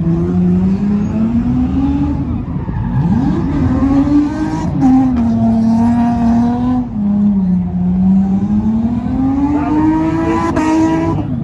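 A car engine revving hard and unbroken, its pitch rising and falling in long, slow sweeps lasting a few seconds each.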